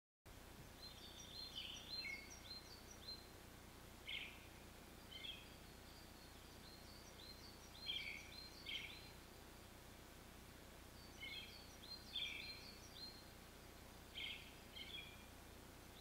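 Faint, high chirping calls of small wild birds, in short clusters every few seconds, over a low steady background hiss.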